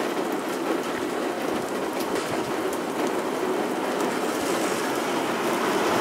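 Heavy thunderstorm downpour falling steadily on wet pavement and road: a dense, even hiss with scattered drops ticking close to the microphone.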